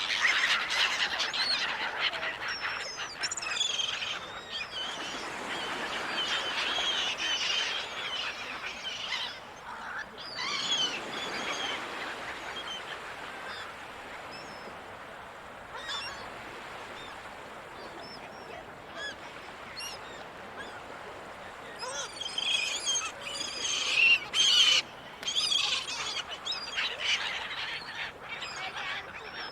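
A flock of gulls calling, with many overlapping cries packed into busy stretches. The calls thin out to a few scattered ones in the middle, then burst into a dense flurry again near the end. A steady wash of sea noise runs beneath them.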